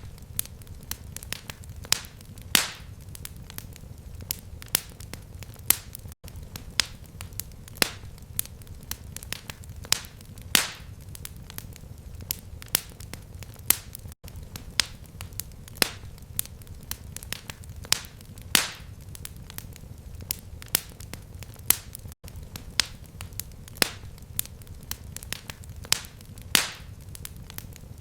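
Fireplace fire crackling: irregular sharp pops and snaps, several a second, over a steady low rumble of the flames. The sound cuts out for an instant about every eight seconds.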